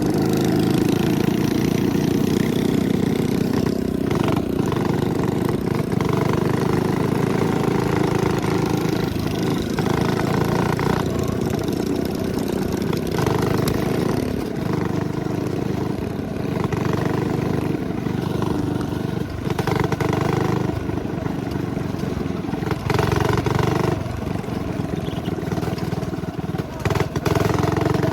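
Small single-cylinder 212cc minibike engines running under way, the sound shifting several times as the throttle is opened and eased.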